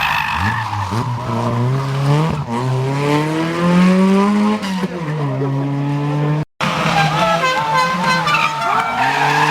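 Historic rally car engines at full throttle with tyre squeal as the cars slide. The first engine climbs steadily in pitch, then eases back; about two-thirds through the sound drops out for an instant and another engine follows, revving and settling.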